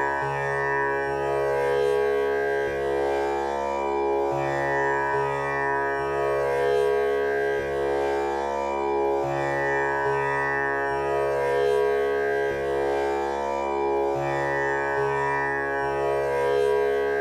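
Tanpura drone tuned to C# (male scale) sounding continuously. Its strings are plucked in turn in a cycle that repeats about every five seconds, each pluck swelling into a rich, sustained set of overtones.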